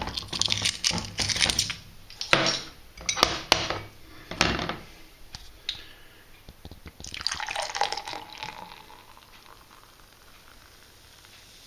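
Beer being handled and poured into a glass: glass clinks and knocks for the first few seconds, then liquid pours for about two seconds, starting around seven seconds in, and fades away.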